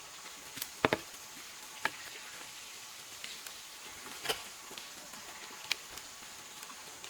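A few scattered sharp taps or knocks, the loudest a quick pair about a second in, over a steady faint hiss.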